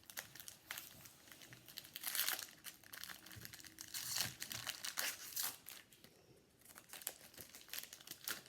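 Wrapper of a 2018 Donruss football card pack crinkled and torn open by hand. It comes in irregular crackly spells, loudest about two seconds in and again around four to five seconds, then eases off.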